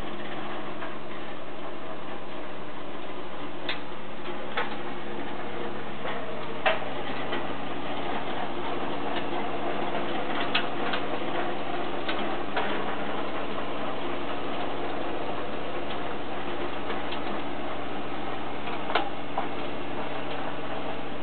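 Kubota B2320 compact tractor's three-cylinder diesel engine running steadily with its rotary tiller working, with a few sharp clicks or knocks scattered through.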